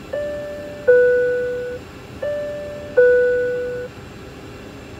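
Aircraft cabin interphone chime sounding twice, each a high-then-low two-note "ding-dong" that rings and fades. It is the flight deck calling the flight attendant: the pilots are ringing.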